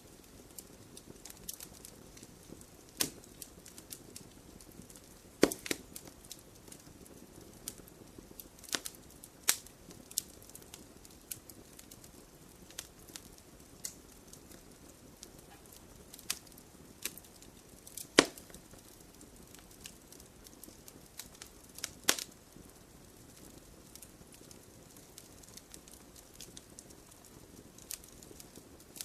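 Wood campfire burning with a soft steady hiss, crackling with scattered sharp pops; the loudest snaps come at irregular intervals a few seconds apart.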